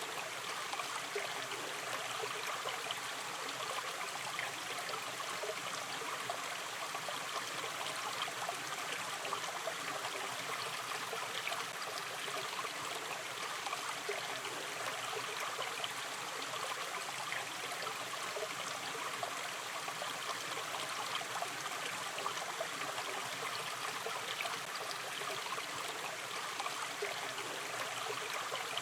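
Gently flowing river stream: a steady babble of running water with fine trickling and gurgling.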